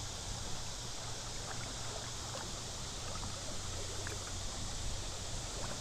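River water running and lapping steadily, with a constant high hiss.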